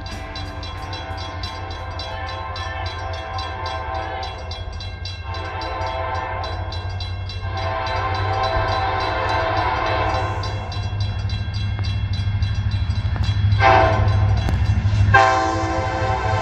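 Diesel freight locomotive horn sounding a chord in long blasts, with one short blast near the end, like a grade-crossing signal. The horn grows louder as the train nears, over the low rumble of the locomotives' diesel engines.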